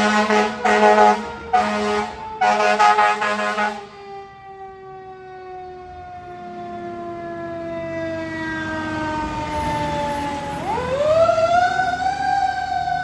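Fire engine responding: four long blasts of its air horn in the first four seconds, over a siren that winds slowly down in pitch. Near the end the siren winds quickly back up and holds a high wail.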